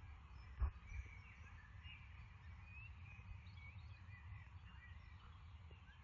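Distant birds chirping over a steady low rumble, with a single thump about half a second in.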